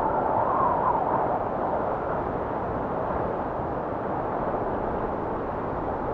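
Strong blizzard wind blowing steadily, a full low rushing noise, with a whistling tone that rises and falls during the first second or so.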